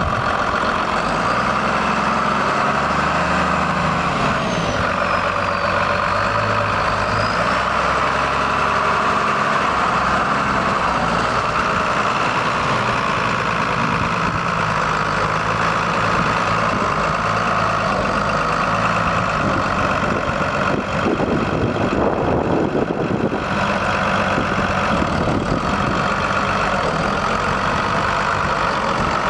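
Diesel engine of a 2001 New Holland TM135 tractor running steadily.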